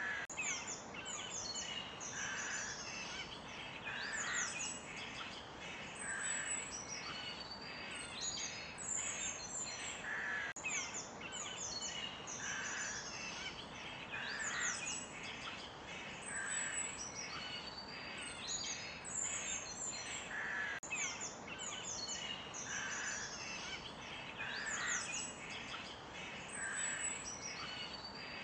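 Several forest birds singing and chirping: many quick high chirps and sweeping notes, with a lower call note repeated every couple of seconds, over a steady background noise.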